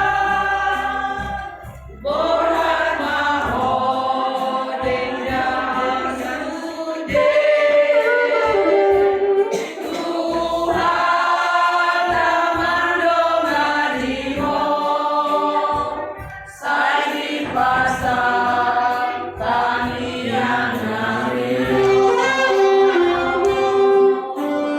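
A choir singing a song together in several voices, with short breaths between phrases about two seconds in and again past the middle.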